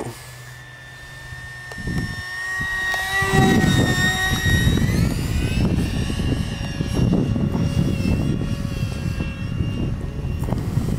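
Electric ducted fan of a Freewing F-35 RC jet (64 mm, 4300 kV) whining steadily. It gets much louder about three seconds in as the jet passes, with its pitch dropping a couple of seconds later as it moves away. Wind buffets the microphone as a low rumble under the whine.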